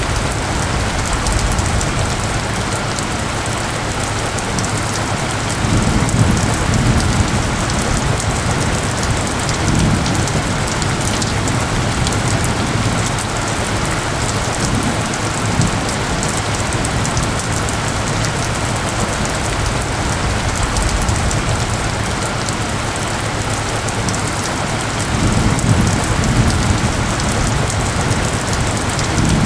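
Steady heavy rain falling, an even hiss, with two low rumbles swelling up: one about six seconds in and one near the end.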